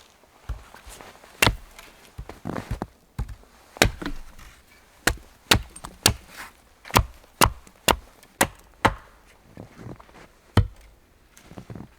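An axe chopping wood: a run of about fifteen sharp, loud blows at an uneven pace, roughly two a second, some landing close together in pairs.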